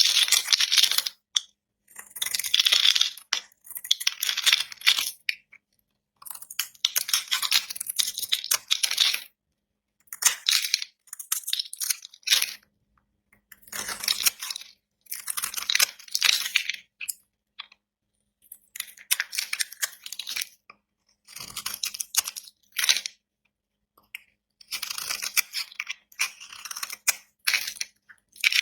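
Knife cutting through dry bar soap: crisp crackling scrapes in about a dozen strokes of a second or two each, with short pauses between.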